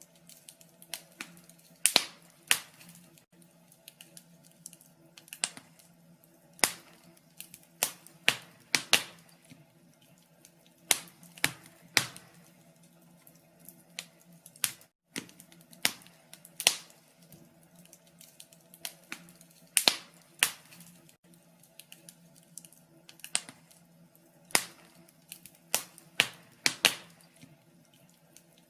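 Wood fire crackling in a fireplace: irregular sharp pops and snaps, a few to several a second in clusters, over a low steady background hum.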